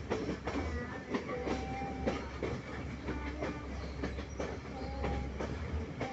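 Udarata Menike passenger train running on the rails: irregular clicking and clatter of the wheels over a steady low rumble, with short squealing tones now and then.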